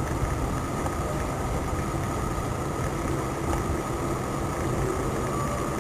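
Steady car engine and road noise, with a low hum, as heard from a vehicle.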